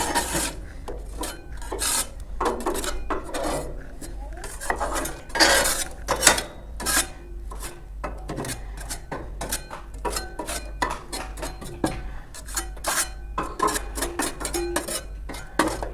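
Steel trowel scraping and clinking against the metal firebox of a wood-burning stove-fireplace as ash is pushed down into the ash pan. Irregular scrapes and sharp clinks throughout, loudest around five and six seconds in.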